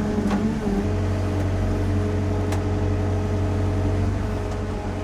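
Sany SY50U mini excavator's diesel engine running steadily, its note shifting just under a second in. Two short sharp clicks stand out over it.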